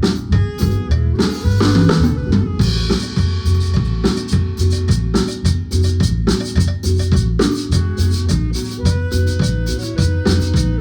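Guatemalan marimba band playing live with a drum kit, the snare and bass drum keeping a steady beat under ringing marimba notes.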